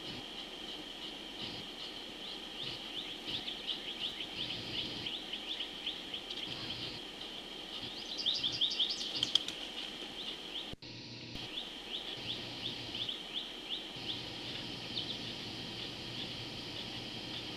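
Outdoor ambience of a steady, high insect drone with a rapid series of short, downward bird chirps over it, loudest about eight to nine seconds in. The sound drops out for a moment near eleven seconds.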